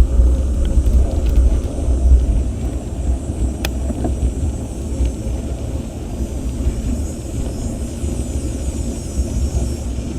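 Wind buffeting an action camera's microphone during a bicycle ride, a loud, fluctuating low rumble, with road and tyre noise beneath it and a single sharp click a little over a third of the way through.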